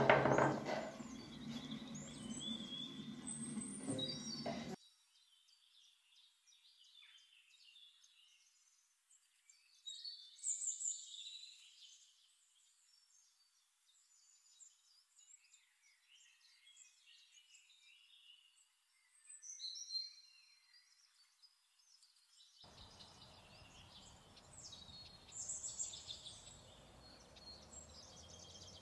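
Birds chirping and singing in short, high calls. In the first few seconds there is also louder kitchen handling noise, which cuts off suddenly.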